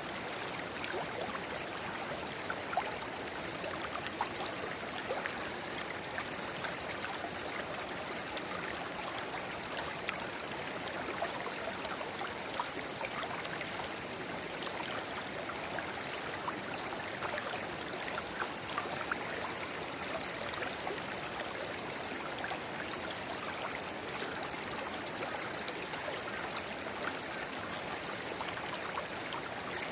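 A river babbling steadily where a narrow spring-fed rivulet flows into it. It is a continuous rush of water with many small splashes and gurgles.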